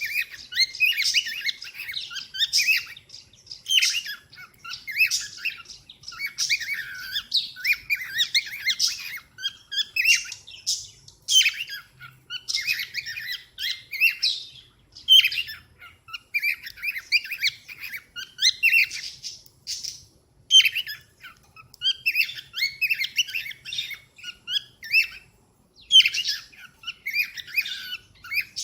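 Cockatiel chirping and chattering in quick bouts of high, rapid calls, with short pauses between bouts.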